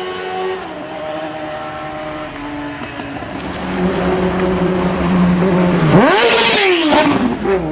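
Sport motorcycle engine running with a steady note, then revved hard about six seconds in: the pitch climbs sharply and drops back within about a second and a half.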